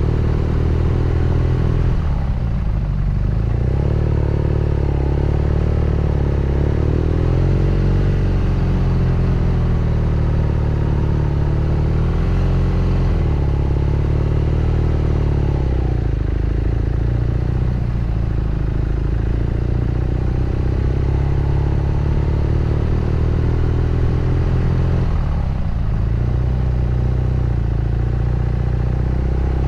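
BMW R nineT Scrambler's boxer twin engine and exhaust running under riding load, its pitch rising and falling with the throttle. There are brief breaks in the engine note about two seconds in and again near the end.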